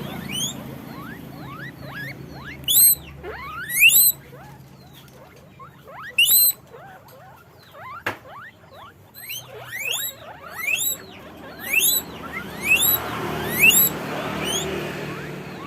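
Guinea pigs wheeking: repeated high, whistling squeaks, each one rising sharply in pitch, several overlapping at once and coming in loud clusters every second or two.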